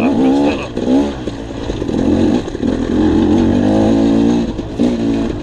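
Dirt bike engine running on a trail ride, its revs rising and falling again and again as the throttle is worked.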